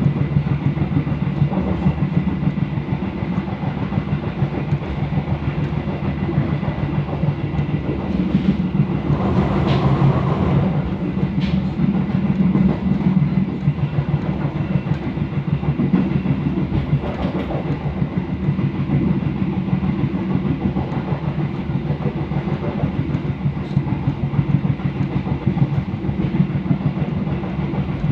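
Pariaman Express passenger train running along the track: a steady low rumble with the wheels clattering over the rails. A louder rushing swell comes about nine to eleven seconds in, and there are a few sharper clicks later on.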